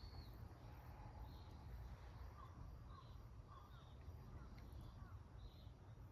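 Near silence: faint chirps of distant birds, repeating every half second or so, over a low steady rumble.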